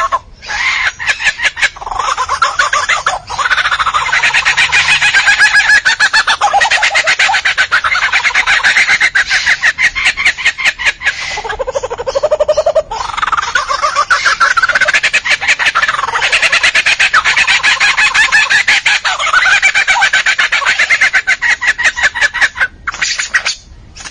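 Chickens calling loudly and almost without pause: a rapid, rattling call whose pitch rises and falls.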